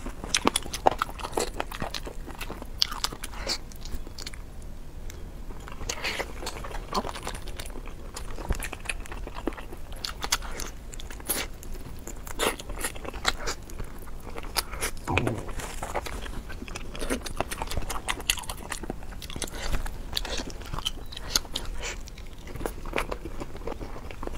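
A person biting and chewing glazed chicken wings close to a clip-on microphone: many small, irregular mouth clicks and crunches.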